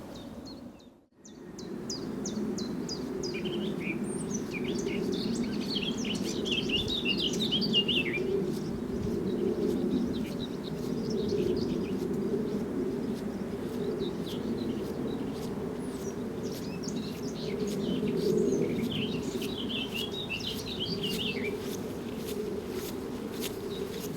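A songbird singing two quick warbling phrases, one a few seconds in and another near the two-thirds mark, each a few seconds long and dropping in pitch at the end. Underneath is a steady low rumble of background noise.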